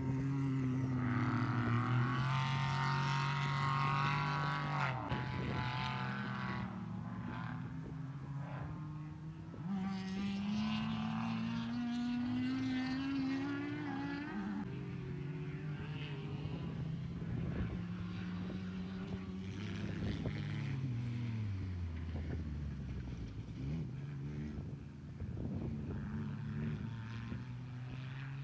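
Off-road vehicle's engine running under load as it climbs over a humped bridge obstacle and drives away, the revs rising and falling. The note climbs for a few seconds near the middle and drops low a little later.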